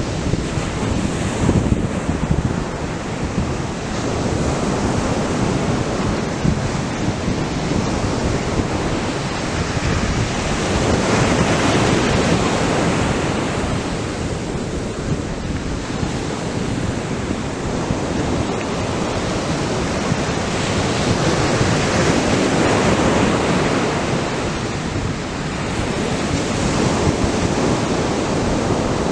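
Atlantic surf breaking on a sandy beach: a continuous wash of waves, swelling louder as larger waves break about a third of the way in and again about three-quarters of the way in.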